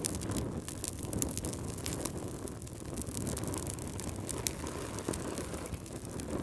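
Fireplace fire crackling: a low steady rumble of flames with frequent short, sharp pops and snaps scattered throughout.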